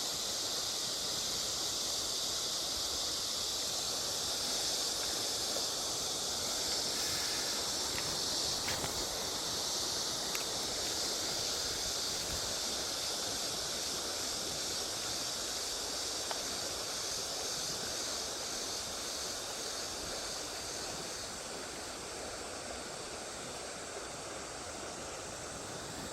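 Steady rushing of river water, the current running high after a rain shower, easing slightly near the end.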